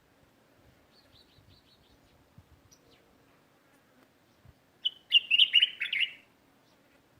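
Small songbirds chirping: a faint run of quick, high notes about a second in, then a loud burst of rapid chirps lasting just over a second, around five seconds in.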